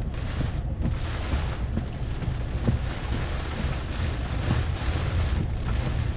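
Steady rain and gusting wind with a continuous low rumble, heard from inside a car.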